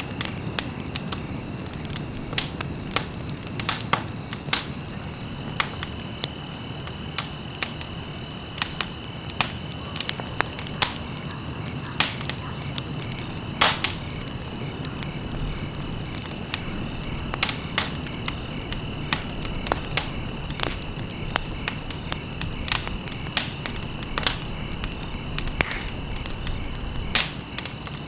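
Wood fire crackling, with sharp irregular pops and snaps over a low steady rumble of flame. A faint steady high tone sits underneath.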